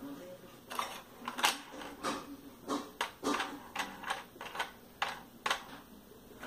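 Uneven series of about a dozen sharp clicks and knocks from a toy airplane being handled and knocked about.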